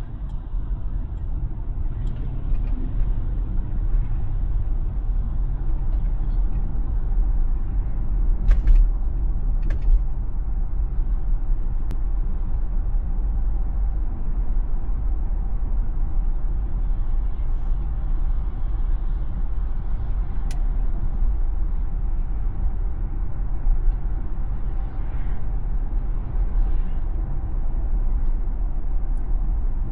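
Tesla driving on local roads: a steady low road and tyre rumble with no engine note, broken by two short clicks about nine and ten seconds in.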